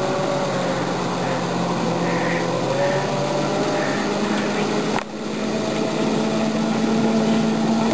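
Ride-on backyard train running with a steady engine drone, briefly dropping about five seconds in and then going on a little higher in pitch.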